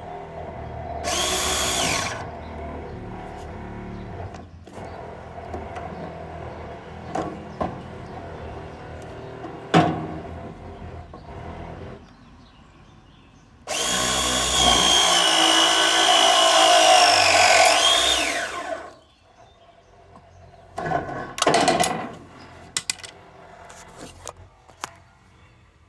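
Battery-powered hydraulic press tool with crimping jaws pressing a press fitting. Its motor whines in short runs: a brief one about a second in, a long one of about five seconds from about 14 s whose pitch sags slowly and then drops just before it cuts off, and another short run near 21 s.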